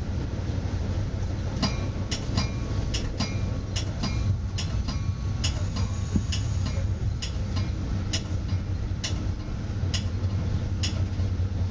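Metra commuter train heard from inside the cab car, with a steady low rumble. From about two seconds in, a regular ticking comes about twice a second.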